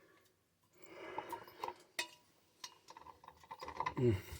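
Pipe and tools being handled while a section is measured for cutting: faint rustling with a few light clicks and a soft knock near the end.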